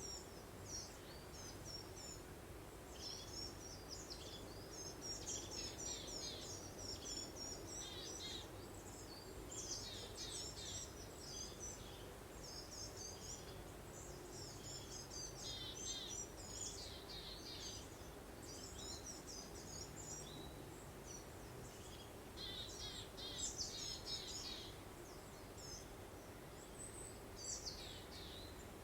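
Songbirds chirping and twittering in short, quick phrases that come and go, over a low, steady rush of breeze.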